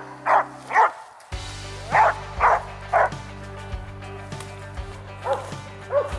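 A hunting dog barking in quick runs of three, loud at first and fainter in the last run, over background music.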